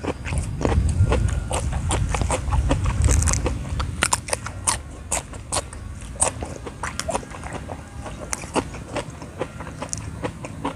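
Close-up crunching and chewing of raw young papaya shoots, many sharp crunches in quick succession, with a low rumble during the first few seconds.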